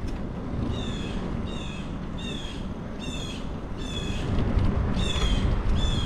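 A bird calling over and over: a short, slightly falling call repeated about seven times. Beneath it runs a low rumble from the moving bicycle, which grows louder about four seconds in.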